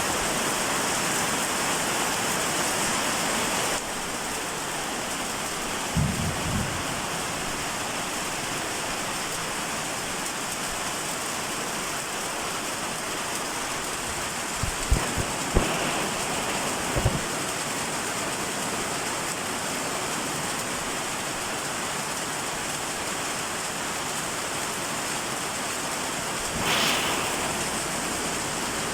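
Steady rain falling, an even hiss, with a few short knocks about 6 seconds in and again between 15 and 17 seconds, and a brief swell in the rain near the end.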